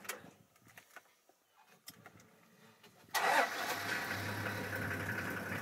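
A vehicle engine starts suddenly about three seconds in and settles into a steady idle. Before that there are only faint small clicks and rustles.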